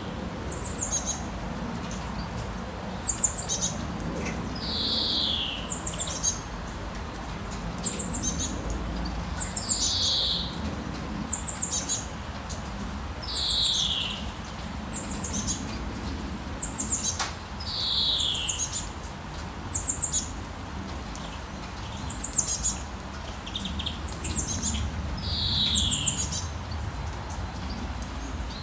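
Rainforest birds calling over a steady hiss of rain: every few seconds a whistled note slides downward, with quick clusters of high chirps in between and occasional soft low notes beneath.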